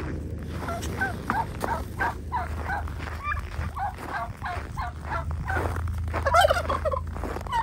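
Domestic turkeys gobbling: a run of short calls one after another, loudest a little after six seconds in, over a steady low hum.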